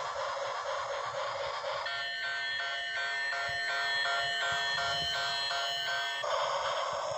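Toy train running with a steady whirring hiss; about two seconds in, a pulsing electronic beeping tune at several fixed pitches takes over for about four seconds before the hiss returns.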